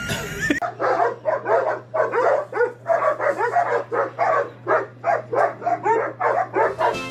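A dog barking in a rapid run of short barks, about three or four a second, over a steady low hum.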